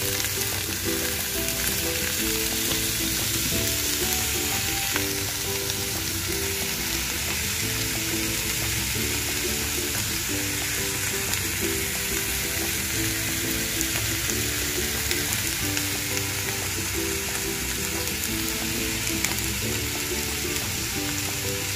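Beef soup bones searing in a hot pot, sizzling steadily throughout. A quiet repeating tune plays underneath.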